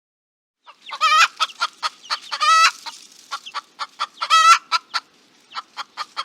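Chickens clucking: a run of short clucks with three longer, drawn-out calls among them, starting just under a second in.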